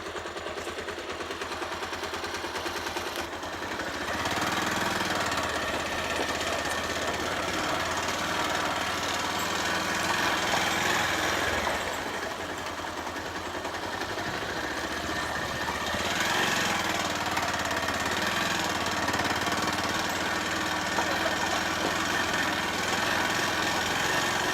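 Bajaj Pulsar 150 motorcycle's single-cylinder four-stroke engine running under way, getting louder about four seconds in, easing off around twelve seconds and picking up again around sixteen seconds.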